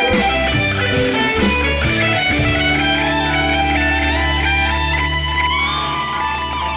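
Instrumental passage of a 1970s rock song: electric guitar with bass, no vocals.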